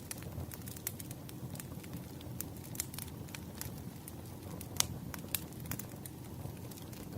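Fireplace fire crackling: irregular sharp pops and snaps over a low, steady rumble of burning, with one louder pop near the middle.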